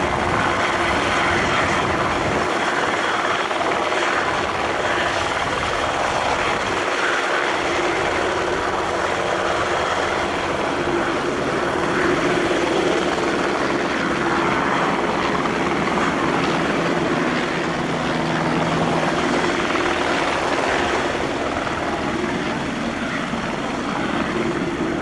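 A helicopter's turbine and rotor running steadily as it departs.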